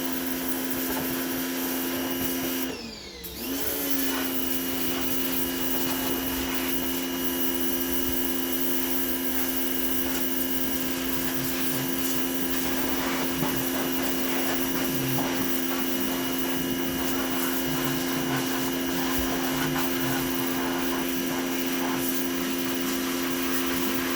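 Pressure washer running steadily, a constant motor hum with the hiss of the water spray. About three seconds in its motor winds down briefly, then spins back up to speed.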